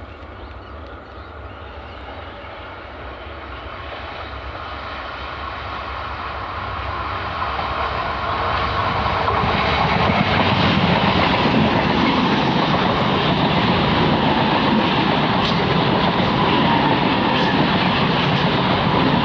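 ICF-built electric multiple unit (EMU) local train approaching and running past: its noise grows over about ten seconds, then holds loud and steady as the coaches roll by, with a few sharp clacks from the wheels near the end.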